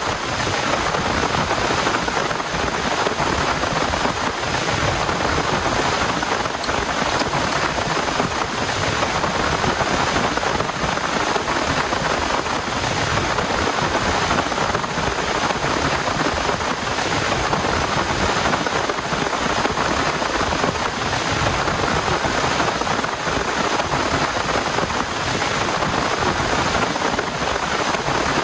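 Heavy rain falling, a steady even hiss with no break.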